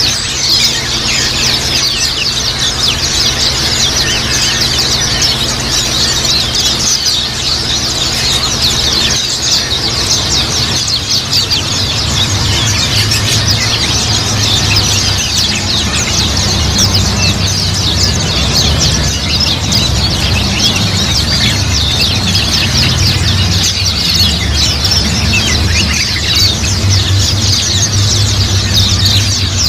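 A flock of white-eyes (pleci, Zosterops) chirping and twittering together in a dense, continuous high-pitched chorus. A low steady hum runs underneath, getting louder about twelve seconds in.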